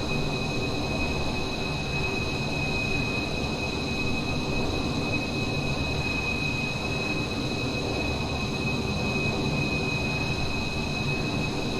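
Steady jet noise heard from inside an F-15 fighter's cockpit: a constant rumble with two high whine tones that hold steady throughout.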